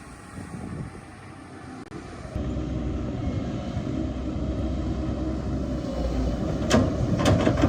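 Excavator's diesel engine running steadily, stepping up abruptly in loudness a little over two seconds in, with two sharp knocks near the end.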